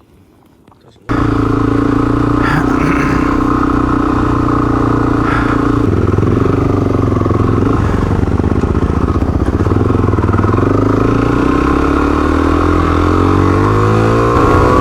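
Motorcycle engine running, starting suddenly about a second in; its note shifts about halfway through and then rises steadily near the end as the bike speeds up.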